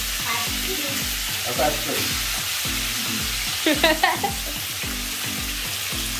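Chicken pieces sizzling steadily as they fry in oil in a pan on a gas stove. A brief high-pitched call cuts in about four seconds in.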